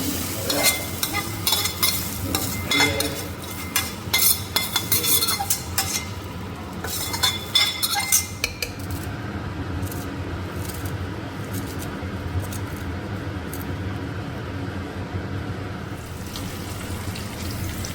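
Food sizzling in a pan while a spoon or spatula scrapes and clinks against it in quick strokes; the stirring stops about halfway, leaving a steady sizzle with an occasional tap.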